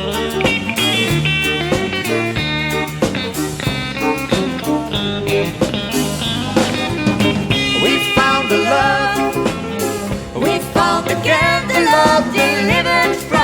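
Live country band playing an instrumental break, with a guitar taking the lead over bass and drums. In the second half the lead line bends and glides between notes.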